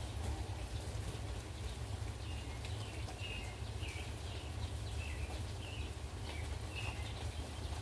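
Steady rain with a low wind rumble, and a bird calling in short repeated chirps from about two seconds in.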